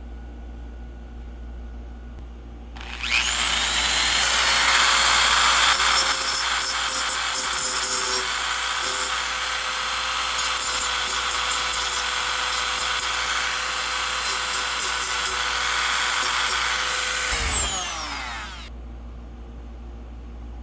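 A small high-speed electric power tool spins up with a rising whine about three seconds in, runs steadily with rough, stuttering scraping as it works rust off a steel license plate, then winds down with a falling whine near the end.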